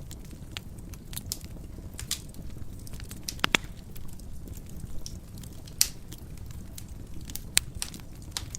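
Wood fire burning in a fireplace: a steady low rumble of flames with irregular sharp crackles and pops, the loudest a quick pair about three and a half seconds in and single pops near six and seven and a half seconds.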